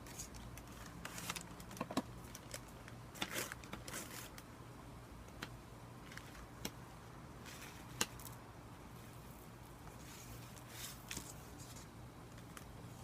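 Ground meat being mixed in a bowl: irregular soft squishes and small clicks, a few louder ones about two, three and eight seconds in.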